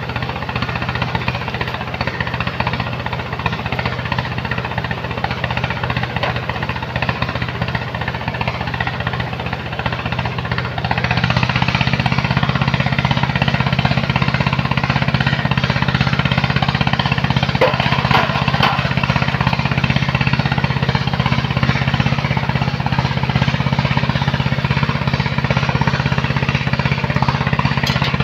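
Engine of a heavy sand-loading machine running steadily with a rough, clattering beat. About eleven seconds in it steps up to a louder, fuller, steady running.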